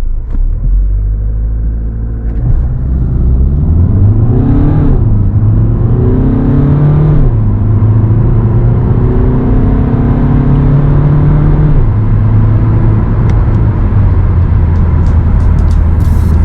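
Alfa Romeo Giulietta's 2.0 JTDm turbodiesel under full-throttle acceleration, its engine note rising in pitch and then dropping at each quick twin-clutch upshift, about three times.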